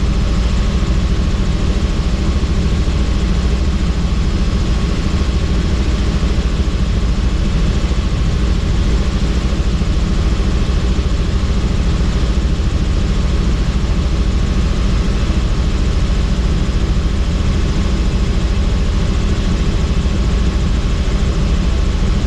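Helicopter in flight, heard from inside: a steady, loud drone of rotor and turbine engine.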